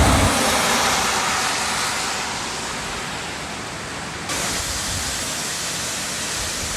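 Waterfall rushing: a steady wash of falling water with no pauses, stepping up slightly about four seconds in.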